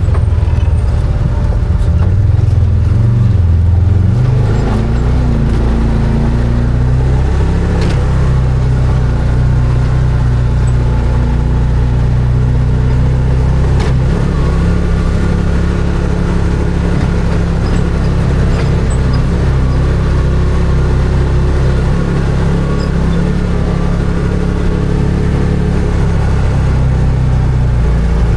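Arctic Cat Wildcat 1000 side-by-side's V-twin engine running under way, its note rising and falling in the first few seconds and then holding fairly steady, with an occasional sharp knock.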